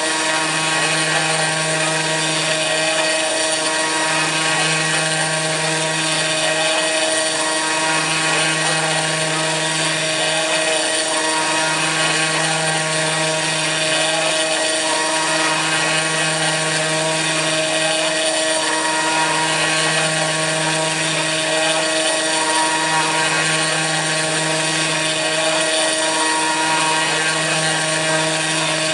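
CNC machine milling aluminium: the Kress FME-1050 router spindle running steadily, with a lower hum that drops out briefly about every four seconds, in a regular back-and-forth cycle.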